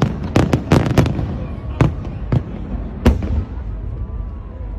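New Year fireworks going off: a quick run of sharp bangs in the first second, then bangs spaced further apart, the last about three seconds in, over a steady low rumble.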